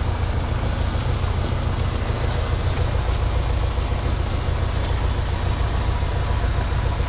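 U650 tractor's four-cylinder diesel engine running steadily under way, a constant low rumble with an even wash of noise above it.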